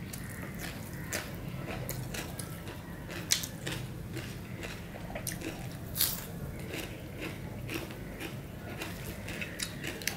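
Close-miked eating sounds: wet chewing of a mouthful of khichuri rice with crisp crunchy bites, likely raw cucumber slices. The sharpest crunches come about three seconds and six seconds in.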